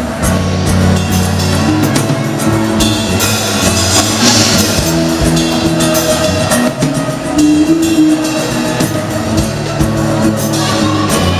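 A band playing the instrumental opening of a song, with steady low bass notes that change pitch every second or so.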